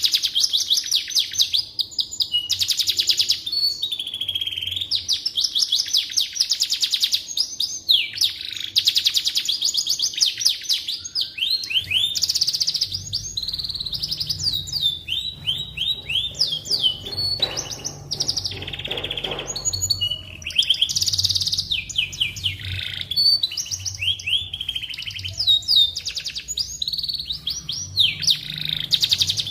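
Domestic canary singing a long, continuous song of rapid trills and rolling, sweeping phrases. A low hum comes in about halfway through.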